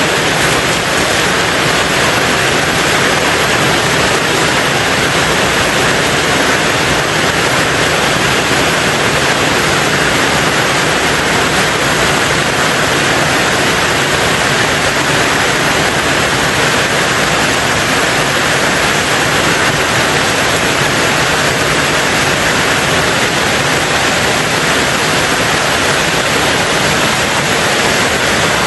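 Heavy rain falling steadily on a tin roof, a dense, even hiss with no let-up.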